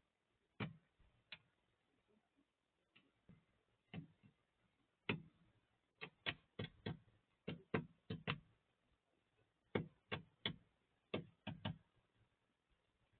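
Birds pecking at food: a series of sharp, irregular taps, some in quick runs of two or three and others a second or more apart.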